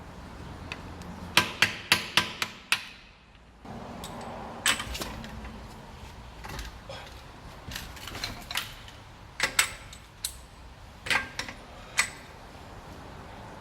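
Hammer blows on metal: a quick run of about half a dozen strikes, then slower, irregular single and paired strikes, each with a short metallic ring.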